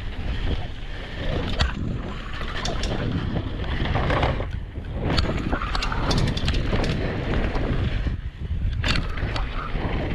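Mountain bike rolling fast over a dirt jump trail, with wind rushing over the microphone and the tyres rumbling on the dirt. Several sharp clacks and rattles from the bike come through the ride.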